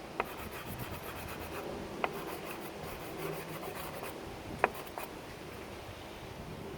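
Soft pastel being rubbed and scraped across paper, a steady scratchy sound, with three short sharp clicks spread across it.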